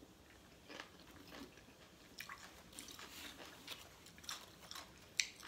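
A person chewing a mouthful of cucumber and tomato salad: irregular crisp crunches, with one sharp crunch near the end.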